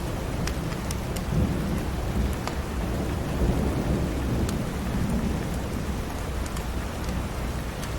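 Steady rain with a low rumble of thunder rolling through, and scattered sharp crackles from a wood fire burning in a fireplace.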